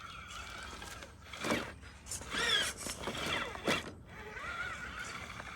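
Axial SCX10 III RC rock crawler's electric motor and three-gear transmission whining as it crawls over rocks, the pitch rising and falling with the throttle, with a couple of knocks from the truck against the rock.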